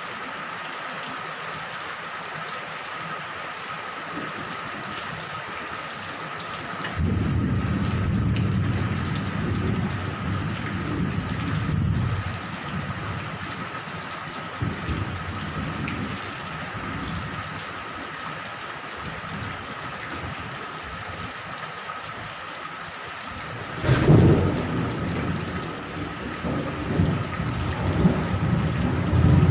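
Steady rain falling, with two rolls of thunder: a low rumble starting about a quarter of the way in that lasts several seconds, and a sharper clap near the end that rolls on.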